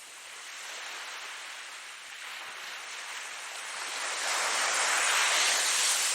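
Ocean surf: a steady rush of waves washing in, with a louder wave breaking about four seconds in and running up the shore.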